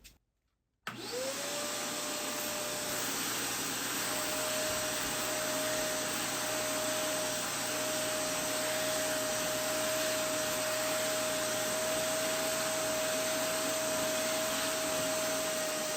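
Eureka portable carpet cleaner starting up about a second in, its motor whine rising quickly to a steady pitch, then running steadily with a strong suction hiss as it cleans up dog urine from carpet.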